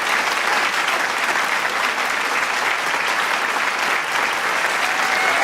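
Large crowd clapping steadily, a dense continuous patter of many hands, with a few cheering voices rising out of it near the end.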